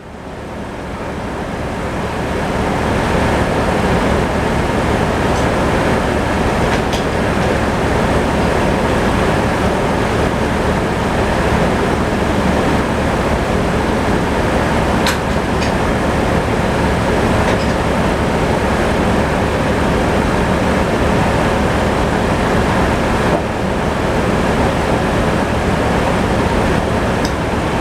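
Sawmill saw cutting through a log, with the mill's engine running under it; the sound builds over the first few seconds and then holds steady with a few faint clicks.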